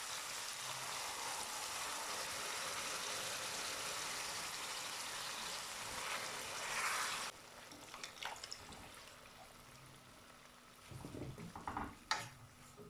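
Diced chicken, garlic and onion frying in a pot with a steady sizzle as chopped tomatoes go in. The sizzle cuts off abruptly about seven seconds in, leaving a few faint knocks and clatters near the end.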